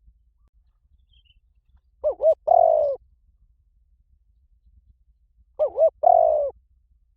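Spotted dove cooing: two calls about three and a half seconds apart, each two short looping notes followed by a longer drawn-out coo.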